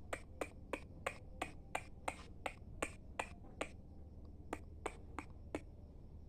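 A person making sharp, evenly paced clicks to call a cat, about three a second: about a dozen, a short pause, then four more.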